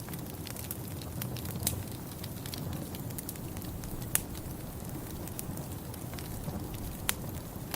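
Wood fire in a fireplace crackling: scattered sharp pops and snaps, the loudest about four seconds in and again near the end, over a steady low rumble.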